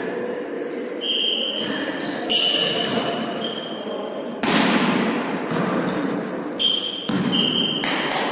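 A volleyball being struck and bouncing on the court floor: several sharp hits that ring out in a large hall, with short high squeaks between them.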